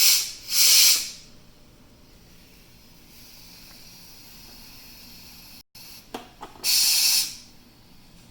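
Pressure cooker's steam release valve venting in short, loud hissing blasts as it is pressed: a quick release of pressure after pressure cooking. Three blasts, two at the start and one near the end, with a faint steady hiss of steam between.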